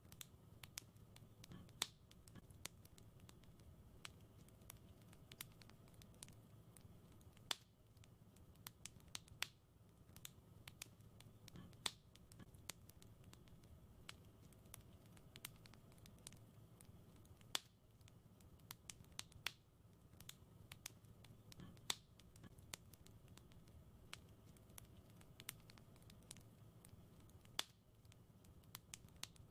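Wood fire crackling softly in a fireplace: irregular sharp pops and snaps over a low, steady rumble of the flames.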